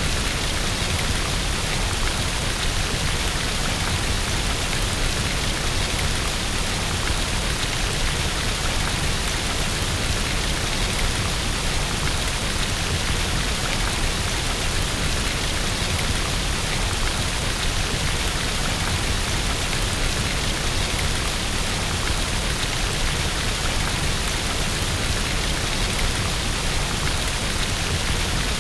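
Steady rain falling, an even unbroken hiss of many drops with no change in strength.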